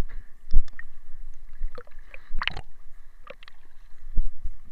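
Water sloshing and splashing, with irregular knocks and low thumps, the loudest about half a second in and around two and a half seconds in.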